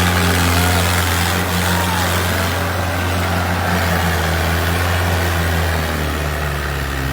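Sawmill machinery running with a steady, loud low drone.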